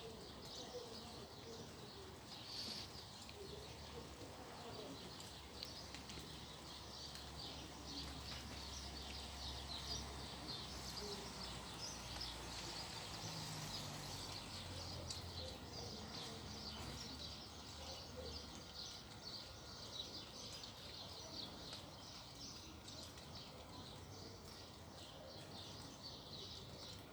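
Many small birds chirping in a faint outdoor ambience, with a low rumble in the middle stretch.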